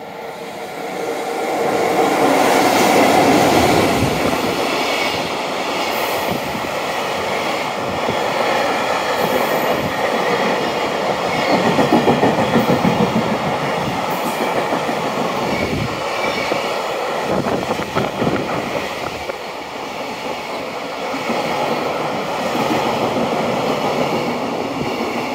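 EF65 electric locomotive and its long container freight train passing through a station. The running noise builds over the first two seconds, then wheels rumble and clatter on the rails as the container wagons go by.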